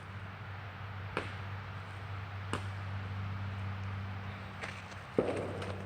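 A person stomping on a surface to test whether it will hold: a few faint taps, then a louder, sudden crunching stomp about five seconds in. A steady low hum runs underneath.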